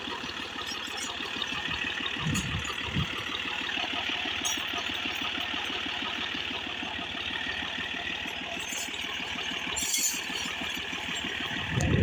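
Tractor engine running steadily with an even firing rhythm, the tractor stuck in mud.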